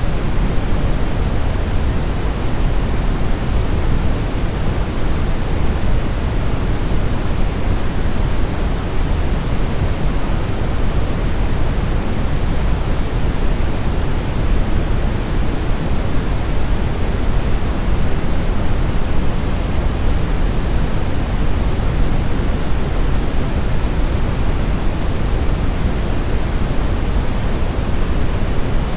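Steady brown noise: an even, unbroken rumbling hiss, heaviest in the low end and thinning toward the highs, with no changes.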